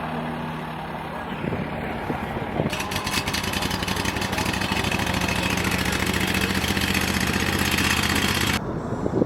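A large engine idling steadily. About three seconds in, a loud rushing hiss joins it, and the hiss cuts off abruptly near the end.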